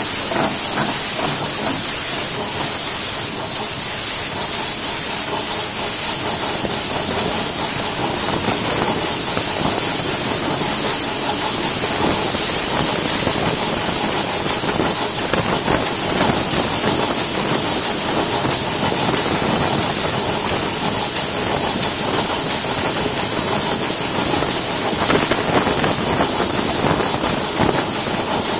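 A steady, loud hiss and rushing running noise from a small two-foot-gauge Crown locomotive moving along the track, heard from the front of the engine beside its bell.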